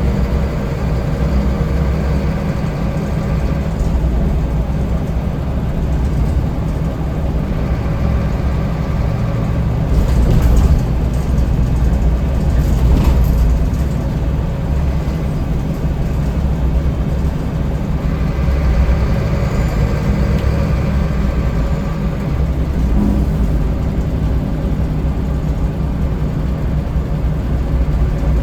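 Scania L94UB bus's diesel engine running under way, heard from on board, with road noise. A brief louder rush of noise comes about ten seconds in and again about three seconds later.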